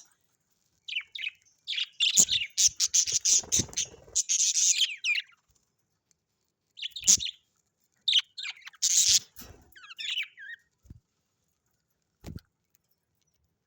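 Pet parrots chirping and chattering in several quick bursts with short silent pauses between them. Near the end there are a couple of soft knocks.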